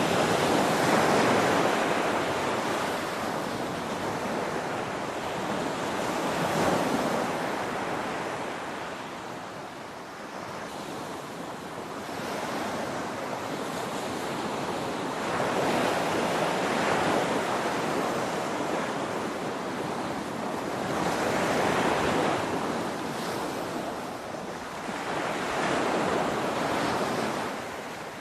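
Ocean waves breaking on a shore: a continuous rush of surf that swells and recedes roughly every five or six seconds, with no distinct crashes standing out.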